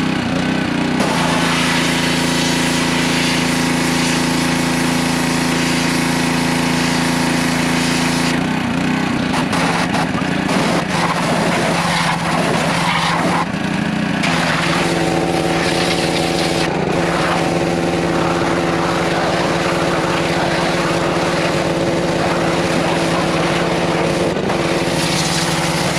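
Small gasoline engine of a pressure washer running steadily; it had sat unused for years and runs on stale gas. From about eight to fourteen seconds in, a rushing hiss joins it and the engine note shifts, then it settles to a steady note again.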